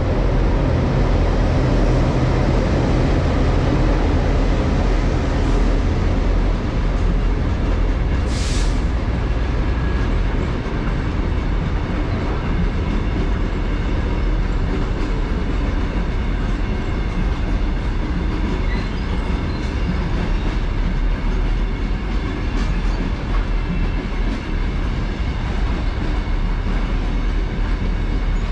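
A train rolling past close by, its wheels running steadily over the rails, with a brief sharp high sound about eight seconds in.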